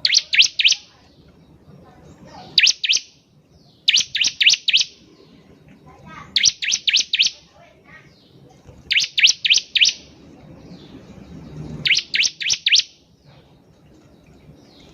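Bar-winged prinia (ciblek) singing: repeated bursts of four or five sharp, high chirps in quick succession, a burst every two to three seconds.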